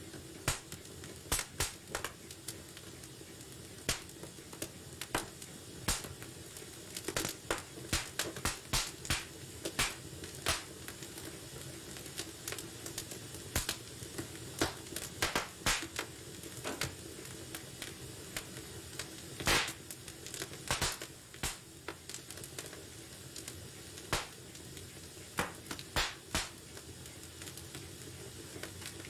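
Wood fire burning in a fireplace: a steady soft hiss with irregular crackles and sharp pops, some louder than the rest.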